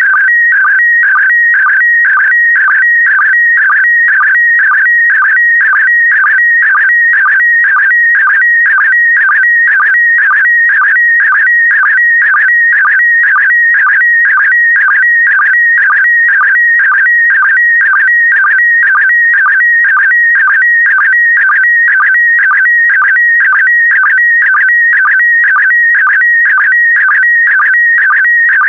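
Slow-scan television (SSTV) signal in PD120 mode sending a picture: a loud, high warbling electronic tone with a short dip repeating about twice a second, one for each pair of image lines.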